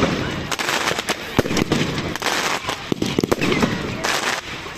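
Fireworks going off: a rapid string of sharp bangs and cracks at irregular intervals, with crackling and hiss between them.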